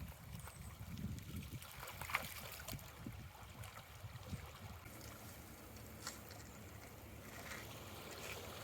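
Faint shoreline ambience: light wind rumbling on the microphone and water gently lapping, with a few soft ticks.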